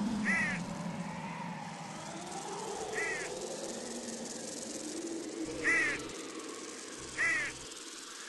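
A bird caws four times, each a short, harsh, crow-like call, the last two loudest. Behind it runs a steady hiss with slow, wavering whistle-like tones.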